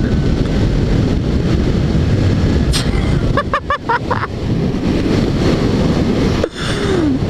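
Steady wind rush buffeting a helmet microphone while riding a quiet, clutchless motorcycle at speed, with no engine note to be heard.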